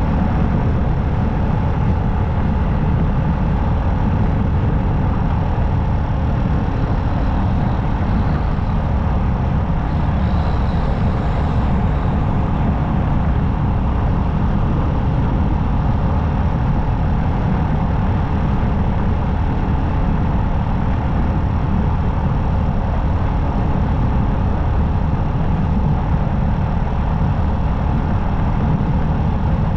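Motorcycle riding at a steady speed: the engine runs evenly under a loud, constant low rush of wind and road noise.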